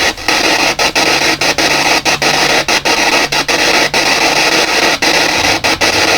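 P-SB7 spirit box sweeping radio stations: a steady hiss of radio static, broken by short gaps two or three times a second as it jumps from station to station.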